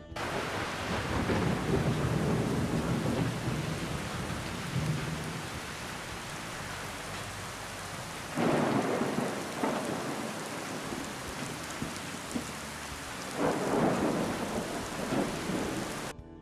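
Steady heavy rain with rolling thunder: a rumble as the rain starts, then two more thunder rolls about halfway through and near the end.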